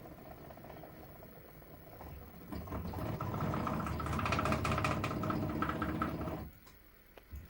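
Small electric drill running, faintly at first, then much louder for about four seconds from about two and a half seconds in, and cutting off suddenly. It is drilling out a stuck screw in an old flintlock shotgun.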